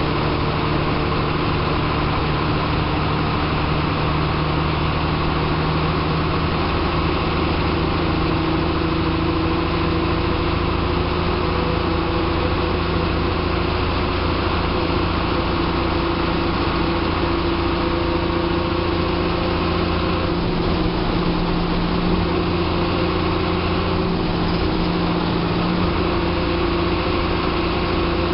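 TSRTC bus's diesel engine running while the bus is under way, heard from inside the driver's cabin: a steady drone whose note rises slightly about eight seconds in.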